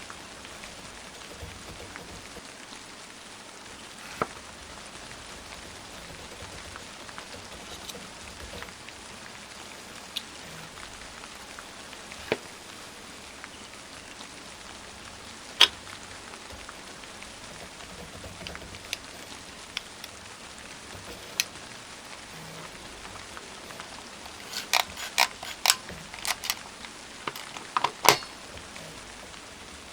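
Steady rain falling, with scattered sharp clicks and taps of small tools and plastic kit parts being handled. A quick run of clicks comes near the end.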